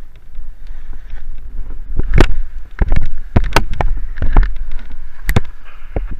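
Strong wind buffeting the microphone: a steady low rumble broken, from about two seconds in, by a run of loud sharp cracks and thumps.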